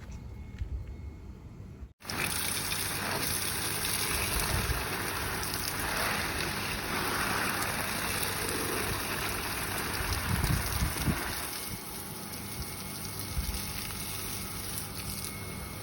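Outdoor ambience: a steady rushing noise, with an abrupt cut about two seconds in, after which it is louder and brighter.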